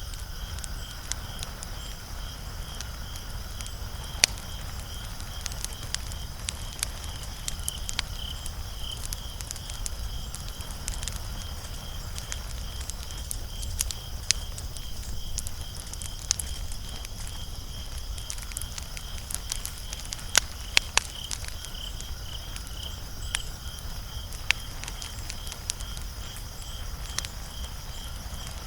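Wood fire crackling, with sharp pops scattered irregularly throughout and a cluster of louder pops about two-thirds of the way through.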